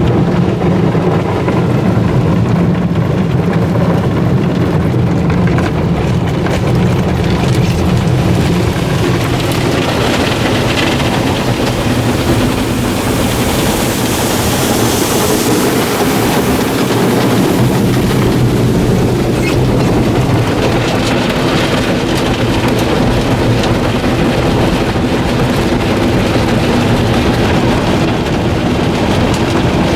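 D&S Odyssey soft-touch automatic car wash running, heard from inside the car: water spraying and drumming on the car body over the steady hum of the wash's motors and pumps. The spray hiss grows louder for a few seconds around the middle.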